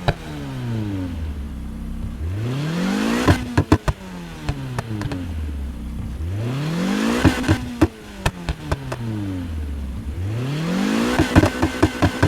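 Lotus Elise S's 1.8-litre four-cylinder engine revved three times while stationary. Each time the pitch climbs quickly to a peak, then sinks slowly back toward idle, with crackles around the top. The last rev is held near the top briefly, stuttering.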